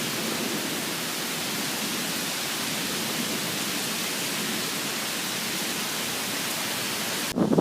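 Heavy monsoon rain pouring down: a steady, even hiss that stops abruptly near the end.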